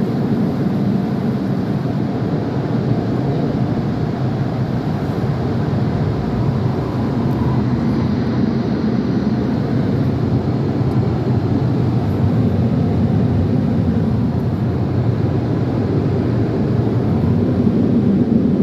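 Car wash air dryer blowers running steadily, a loud continuous rush of air on the car, heard from inside the car.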